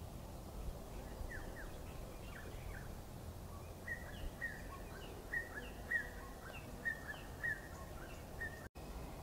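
Small bird chirping: a run of short, quick falling notes, thickening after a few seconds with a thin steady tone beneath them, over a constant low background rumble.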